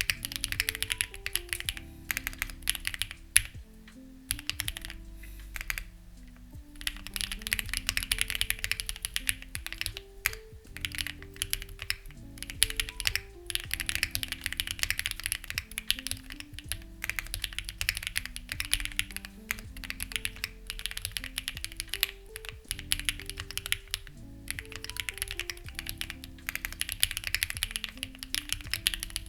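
Mechanical keyboard typing on a Lucky65 v2 fitted with stock, unlubed HMX Ziwei switches: rapid runs of keystroke clicks in bursts of a few seconds with short pauses between. Soft background music with slow low notes plays underneath.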